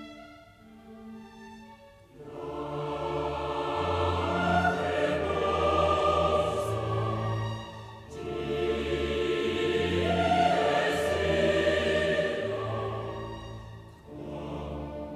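Choral music with orchestra: a soft held opening, then from about two seconds in two long swelling phrases of massed voices over low strings, easing off briefly in between.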